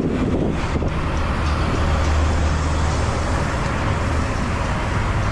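Steady road and traffic noise: a continuous even rush with a low hum underneath, heard from the road during a ride.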